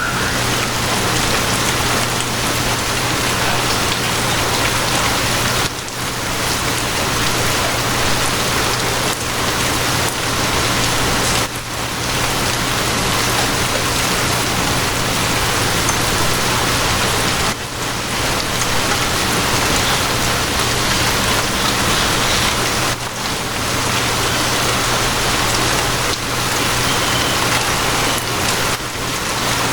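Steady, heavy rain falling, an even wash of noise with a brief dip in level about every six seconds and a low steady hum underneath.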